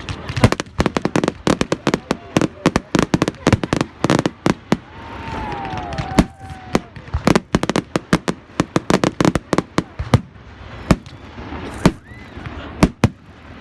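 Fireworks going off in rapid, irregular bangs with crackling between them. Several loud reports come in quick succession, and a falling whistle is heard about five seconds in.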